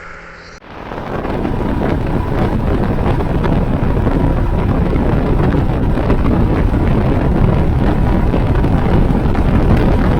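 Wind rushing over an action camera's microphone on a moving motorcycle, with the Royal Enfield Himalayan's single-cylinder engine running underneath. It comes in about half a second in and then holds steady.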